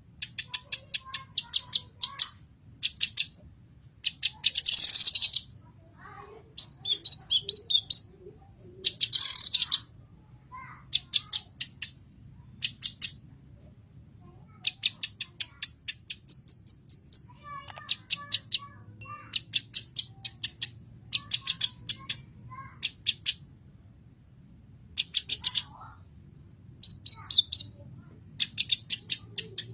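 Blue-masked leafbird (cucak kinoy) singing: short runs of rapid, sharp high chirps, broken by a couple of longer harsh, buzzy calls and a few warbled notes.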